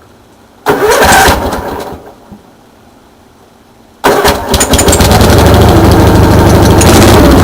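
Gravely 818T riding tractor engine on a cold start. A first try about a second in sounds briefly and dies away without catching. A second try about four seconds in catches, and the engine settles into a steady run.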